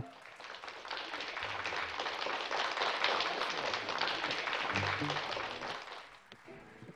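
Audience applauding, swelling over the first few seconds and dying away near the end.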